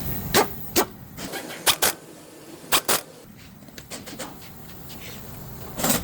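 A series of short, sharp knocks and clicks, several in quick pairs, with a last one near the end.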